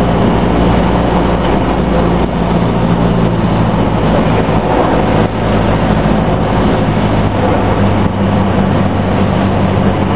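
Single-engine Cessna's piston engine and propeller droning steadily, heard inside the cabin, with a constant low hum under a loud wash of noise.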